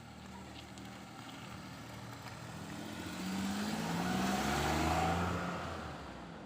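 A motor vehicle passing close by: its engine and road noise swell from about halfway through, peak, then fade, and the engine note drops in pitch as it goes past.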